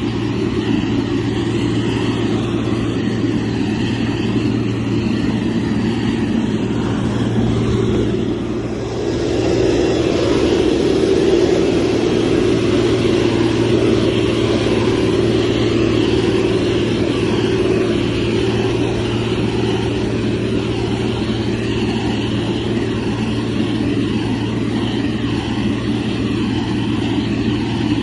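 Heavy construction machine's diesel engine running steadily with a deep drone. It dips briefly about eight seconds in and comes back a little louder.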